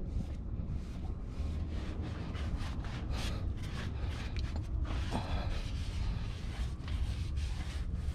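Scattered rubbing and scraping handling noises, somewhat louder about five seconds in, over a steady low rumble.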